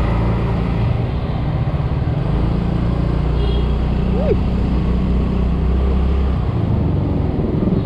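Small Yamaha scooter engine running with a steady low rumble as the bike rides off through city traffic.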